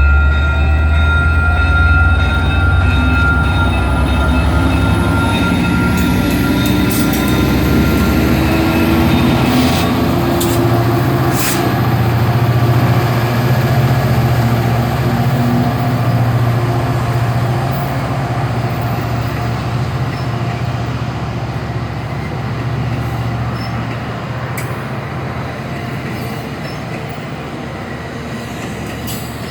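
EXO commuter train running through the station: a heavy low rumble with steady and rising mechanical tones as it gathers speed, a few sharp clanks from the wheels and rails, and the sound slowly dying away near the end.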